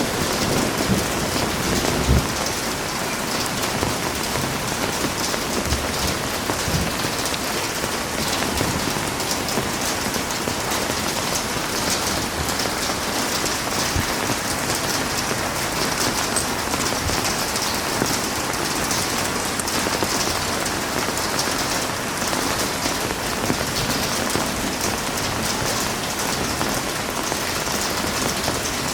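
Heavy rain falling steadily, a dense even hiss of drops on surfaces. The low rumble of thunder dies away in the first two seconds or so.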